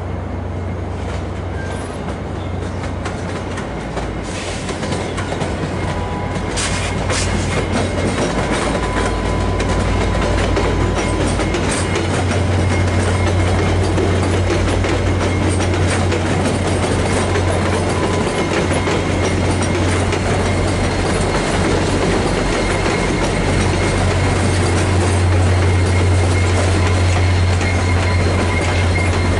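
A VIA Rail passenger train of LRC coaches rolls past over switches, the wheels clicking and rattling over the rail joints. Under it runs a steady low drone from the diesel locomotive's engine, growing louder as the train nears. A faint high wheel squeal joins in about seven seconds in.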